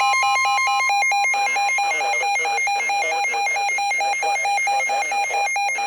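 Emergency weather alert tone announcing a flash flood warning: about a second of warbling, data-like electronic tones, then a loud, rapid pulsing beep repeating several times a second.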